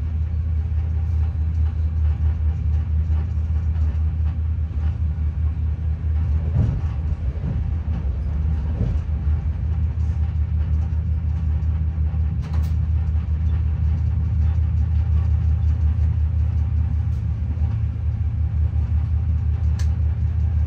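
Passenger train running at speed, heard inside the carriage as a steady low rumble.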